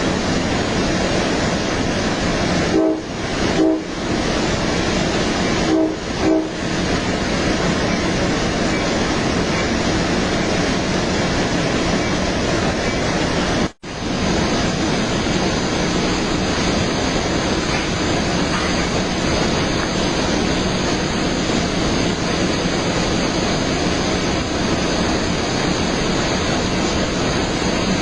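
Steady rushing rumble of a moving Altamont Corridor Express passenger train, with the horn sounding short blasts about three seconds in and again about six seconds in. The sound cuts out for an instant about halfway through.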